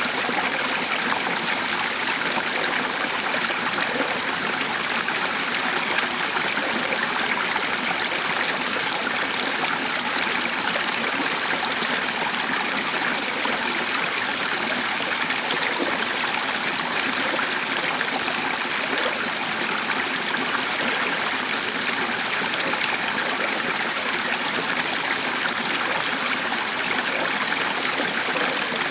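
A stream running steadily, an even rush of flowing water that does not change.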